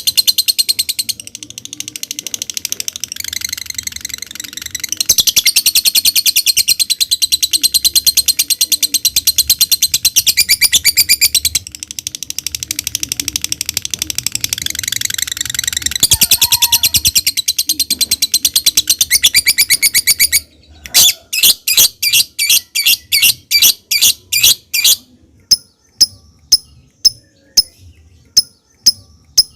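Lovebird singing a long, rapid, high-pitched chattering trill (ngekek) for about twenty seconds, broken by a few short pauses. It then switches to a run of separate sharp chirps, about two a second, and near the end to spaced high ticking notes.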